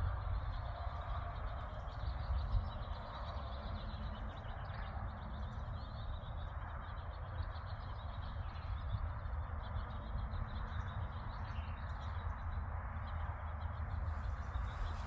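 Honeybees buzzing around a hive in a steady hum, with wind rumbling on the microphone.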